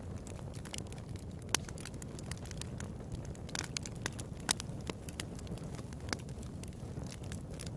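Fire crackling in a fireplace: a steady low rush of burning with scattered sharp pops and snaps, a louder pop about a second and a half in and another a little past halfway.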